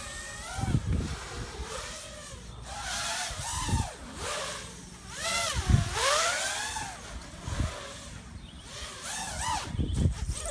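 Quadcopter drone in flight, its motor and propeller whine swooping up and down in pitch as the throttle changes, with several low thumps.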